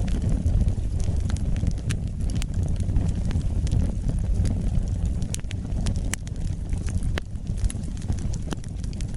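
Wood fire burning in a fireplace: a steady low rumble of flames with irregular, scattered crackles and pops of burning wood.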